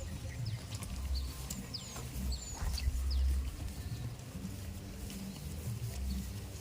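Many short, high, falling chirps of small birds over an uneven low rumble.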